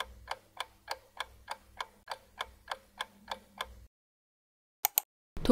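Ticking-clock sound effect marking an answer-time countdown, about three ticks a second, stopping about four seconds in. Two quick clicks follow about a second later.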